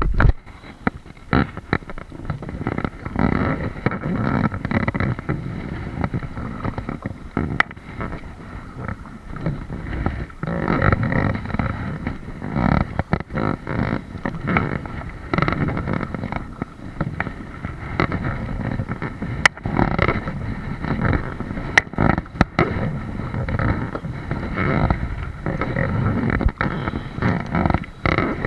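Kayak on the water: uneven surges of paddle and water noise against the hull, with a few sharp knocks.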